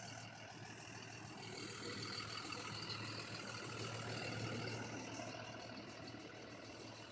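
Vehicle engine idling steadily with a low hum, a little louder about midway and fading near the end.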